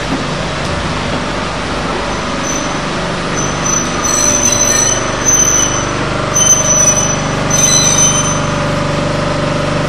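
Steam-hauled passenger train rolling away around a curve: a steady rumble, with a high-pitched wheel squeal on the curved track that comes and goes from about two and a half seconds in.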